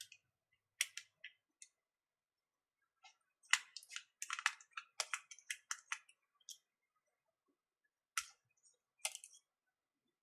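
Small metal tools clicking and tapping against a smartwatch's tiny screws and internal parts during disassembly. A few scattered clicks, a quick run of a dozen or so in the middle, then two more near the end.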